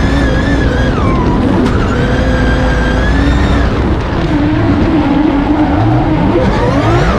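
A drift car's engine held at high revs, dipping briefly about a second in and climbing back, then revving up and down in quick sweeps near the end.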